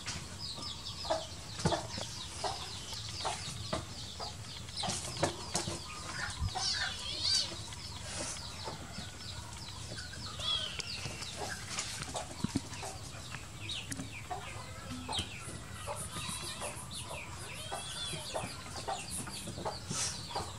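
Birds chirping over and over in short, high-pitched calls, with light clicks and rustles in between.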